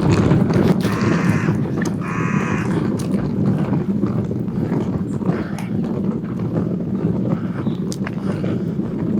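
Two short harsh animal calls, about a second apart, over a steady low rumble.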